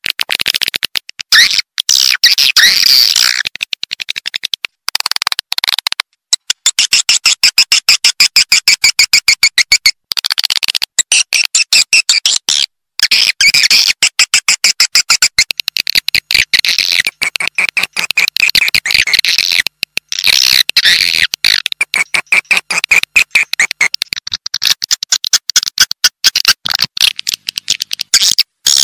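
Swiftlet calls: dense trains of fast, rattling chirps and twitters, broken by short pauses every few seconds. This is a swiftlet call track of the kind played from a swiftlet nesting house to draw the birds in.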